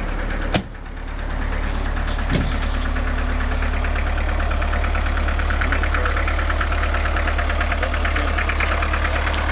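1981 Peugeot 604 turbodiesel idling with an even, rapid diesel clatter over a steady low hum. A sharp click about half a second in is followed by a brief dip in level that builds back up.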